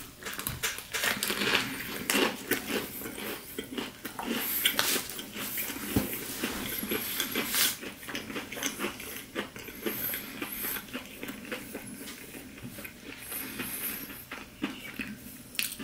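A bite into a Popeyes fried chicken sandwich with thick breading, then chewing, heard as many small crunchy crackles that thin out in the second half.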